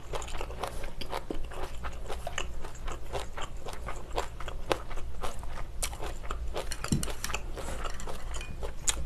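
Close-miked chewing of a mouthful of bean sprouts and glass noodles: a dense run of wet mouth clicks and crunching.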